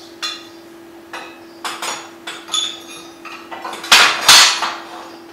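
Steel pieces clinking and clanking against each other as steel plates and an angle-iron bending jig are set into a jack press: several light metallic knocks, then two loud clanks close together about four seconds in. A steady hum runs underneath.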